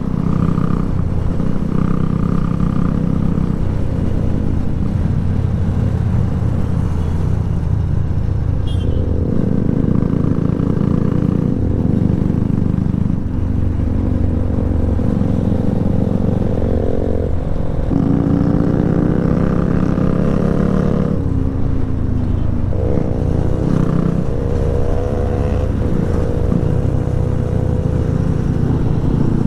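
Motorcycle engine running while riding, mostly steady, then twice rising in pitch in the second half as it accelerates.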